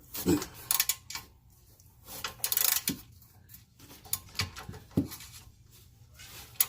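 Socket and ratchet working on a rusted exhaust bolt: irregular metal clicks, knocks and scraping, with a longer burst of rapid clicking about two seconds in. The bolt is rusted and stripping under the socket.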